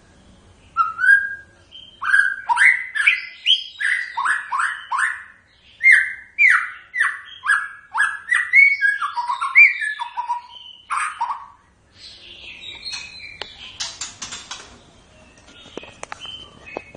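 White-rumped shama singing: a run of loud, clear whistled notes, each sliding in pitch, about two a second for some ten seconds, then a softer, scratchy chattering near the end.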